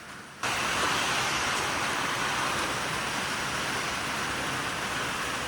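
Steady hiss of wind-driven heavy rain, starting abruptly about half a second in.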